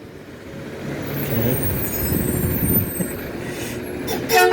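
CNG garbage truck's engine running as it passes, building up over the first few seconds with a faint high hiss. It ends with two short horn honks.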